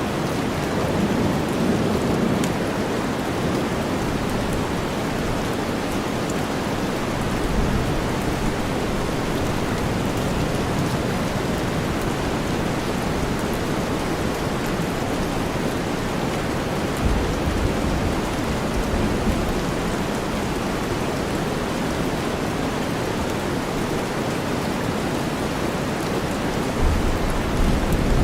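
Steady heavy rain blended with deep white noise, with low rumbles of thunder swelling briefly past the middle and again near the end.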